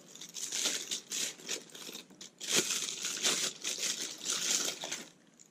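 Packaging crinkling and rustling in irregular handfuls as the 18-55 mm kit lens is unwrapped, stopping about five seconds in.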